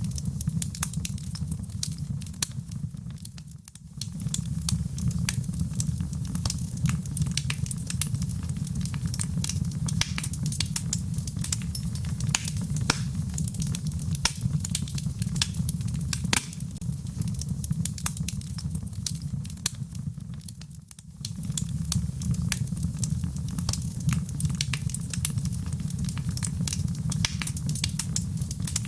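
Wood bonfire burning, with a steady low rumble of flame and constant crackling and popping. The level briefly drops twice, once a few seconds in and again about two-thirds of the way through.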